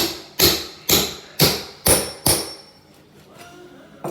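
Six sharp blows against the bathroom sink fixture, about two a second, each ringing briefly: it is being knocked to break it loose from the wall.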